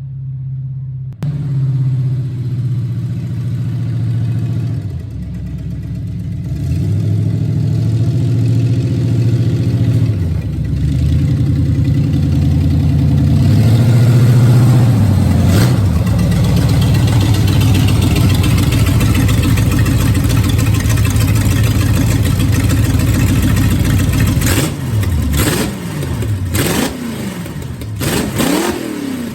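V8 engine of a rat trike running under load, its note fairly steady for most of the time, then revving up and down sharply several times near the end.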